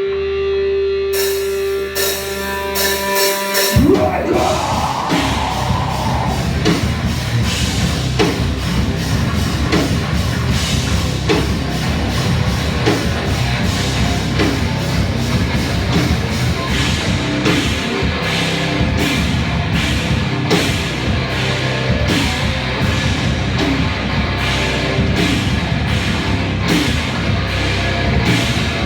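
Live rock band playing a loud, heavy song: a held guitar chord rings for about four seconds, then the drums and full band come in with a steady driving beat.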